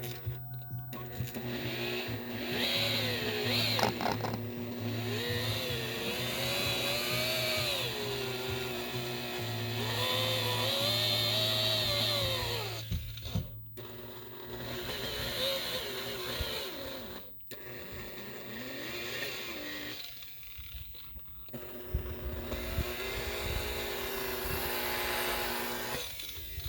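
Electric buffer with a foam pad running on boat gelcoat, its pitch wavering up and down as it is worked over the surface, cutting out briefly a few times.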